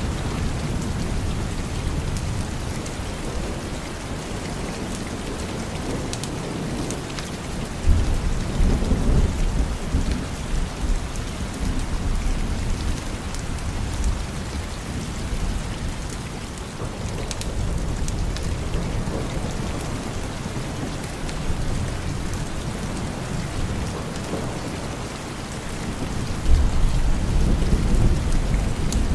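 Steady rain with thunder rumbling, two louder rolls of thunder starting suddenly about eight seconds in and again near the end.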